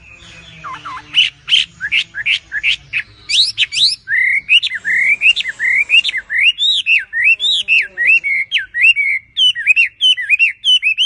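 A songbird singing a fast, continuous song: first a run of quick sharp notes sweeping steeply in pitch, then from about four seconds a rapid string of looping whistled notes rising and falling, several a second, until the song stops at the end.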